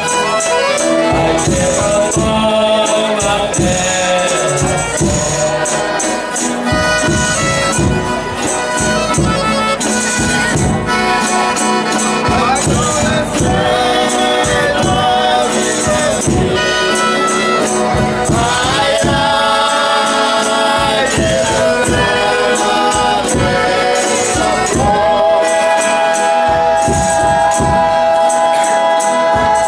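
Folia de Reis group singing in chorus over tambourine and other instruments, with a steady percussion beat. Near the end the voices hold one long note together.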